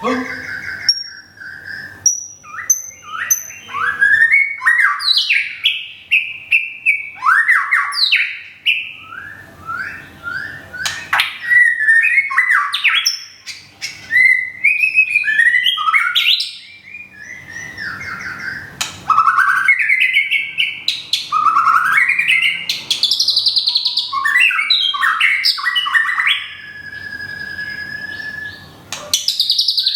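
White-rumped shama singing a long, varied song of quick whistled phrases that slide up and down, with brief clicks between phrases and one long held whistle near the end.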